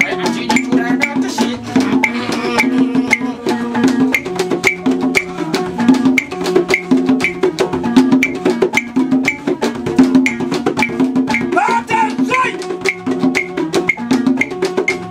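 Kologo (two-string Frafra lute) music: a repeating plucked pattern over steady clicking percussion, with a short sliding vocal cry late on.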